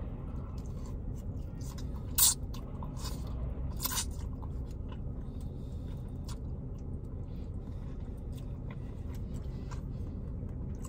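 A person chewing and eating noodles close to the microphone, with small wet clicks and two brief sharp mouth or utensil sounds about two and four seconds in, over a steady low rumble inside a parked car.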